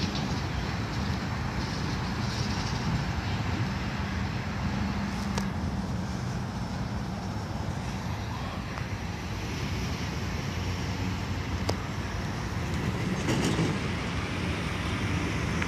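Norfolk Southern mixed freight train's cars rolling steadily through a road grade crossing, with road traffic passing.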